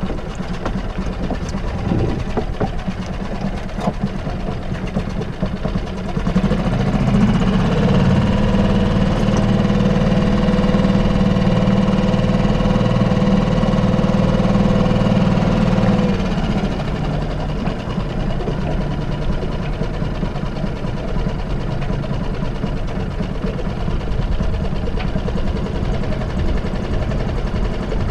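Small boat engine running while the yacht manoeuvres to moor, pushed harder from about six seconds in and throttled back after about sixteen seconds.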